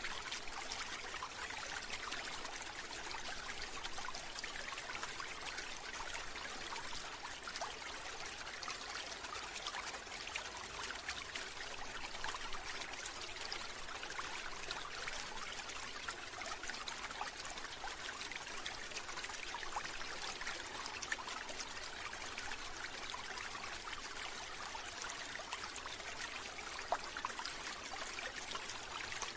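Steady running water, a continuous trickling flow like a small stream, with no let-up or change.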